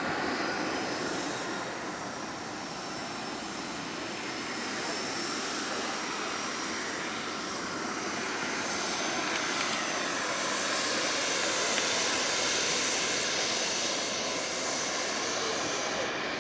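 Small turbine engine of a radio-controlled model jet running at high power: a continuous rushing jet noise with a faint high whine, growing louder in the second half.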